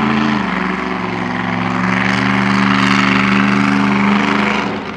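Monster truck engine held at high revs in a steady drone, dipping slightly in pitch about half a second in, then letting off just before the end.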